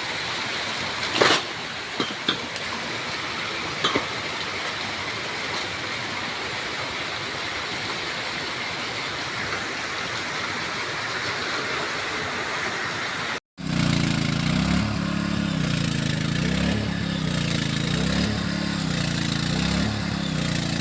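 A steady rushing noise with a few sharp clicks. After a sudden cut about two-thirds of the way through, a small engine runs, its pitch swelling and falling about every second and a half.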